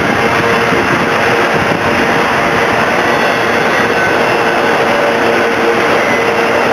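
Freight train's autorack cars rolling past at speed: a steady noise of steel wheels running on the rails.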